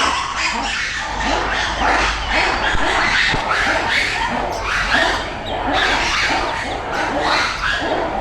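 A group of zoo animals calling together, many short squeaky calls overlapping in rapid chatter.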